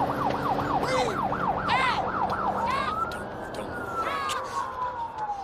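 Police car siren sounding a fast up-and-down yelp for the first couple of seconds, then changing to a slow rising and falling wail.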